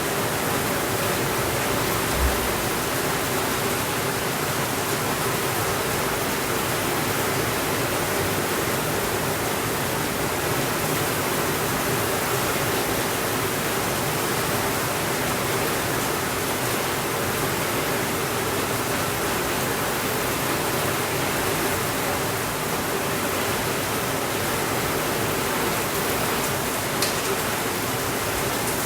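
Steady rainfall, an even unbroken hiss. There is a brief low thud about two seconds in and a single sharp click near the end.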